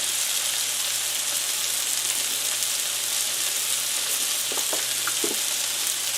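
Onions frying in a pan, a steady sizzling hiss, with a few light utensil taps about four to five seconds in.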